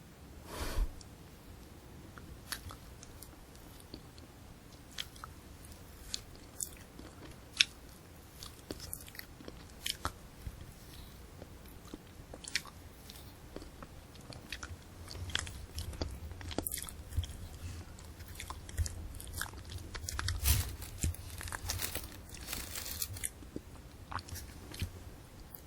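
Close-miked eating of a candy apple: a bite about a second in, then sharp, scattered cracks of the hard sugar shell, giving way in the second half to steady crunchy chewing of shell and apple.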